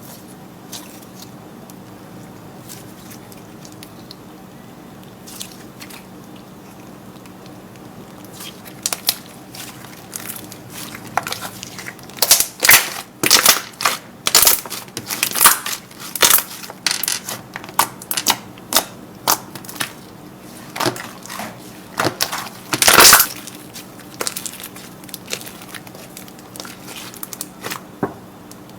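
Slime being squeezed and pressed by hand, giving off irregular crackling pops and clicks. It starts faint and sparse, then grows loud and rapid from about a third of the way in.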